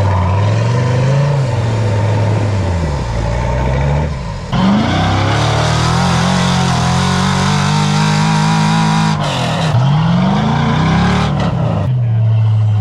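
Off-road vehicle's engine revving up and down under load. It climbs sharply about four and a half seconds in, holds at higher revs for about five seconds, then drops and picks up again.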